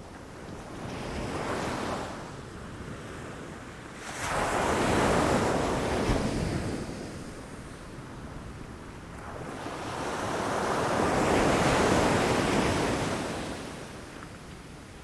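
Ocean waves crashing against rocks. There is a small surge about a second in, then a louder wave breaks suddenly about four seconds in and washes back, and a third wave swells slowly and fades in the second half.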